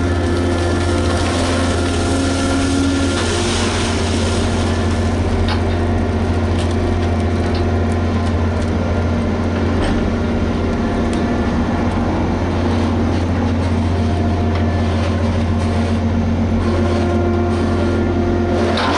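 Liebherr HS8200 dragline excavator's diesel engine running steadily under work: a constant low drone with a few steady whining tones above it.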